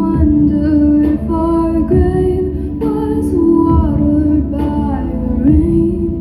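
Female voice singing long, wordless held notes that glide between pitches, over a backing track with a soft low beat about once a second.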